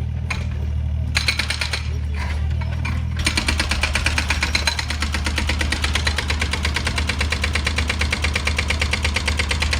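Excavator's diesel engine running steadily, with a rapid, even metallic clatter that sets in about three seconds in and keeps going.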